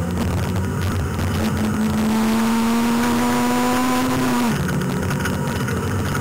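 Peugeot 106 1.4 8-valve rally car's engine, heard from inside the cabin, pulling hard at high revs. Its note climbs slowly for a few seconds, then drops suddenly about four and a half seconds in, over a steady road and cabin rumble.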